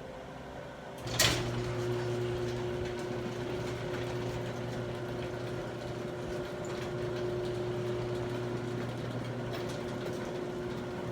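A sharp clack about a second in, then a steady mechanical hum with a low droning tone that runs on.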